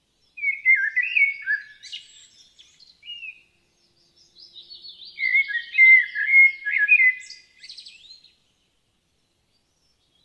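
A songbird singing two bouts of quick, high chirping and warbling notes. The second bout starts about four seconds in and is the louder.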